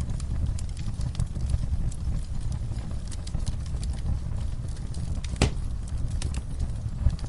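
Wood fire burning in a fireplace: irregular crackles and snaps over a steady low rumble, with one louder pop about five and a half seconds in.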